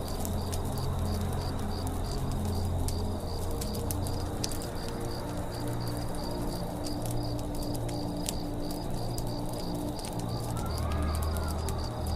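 Forest campfire ambience: a wood fire crackling with scattered sharp pops, over a steady high chirping pulse about three times a second and a low hum. Birds call, with one rising-and-falling call near the end.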